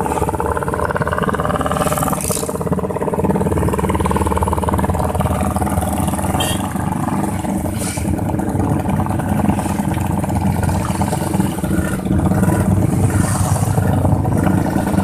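Motorcycle engine running loud through an aftermarket racing exhaust, its note rising over the first two seconds and then holding steady.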